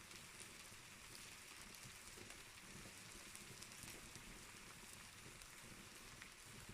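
Fire in a fireplace crackling faintly: a soft steady hiss with scattered small pops and clicks.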